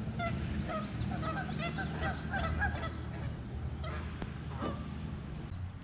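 Geese honking in a rapid, overlapping series that thins out about three seconds in, with a few more calls after.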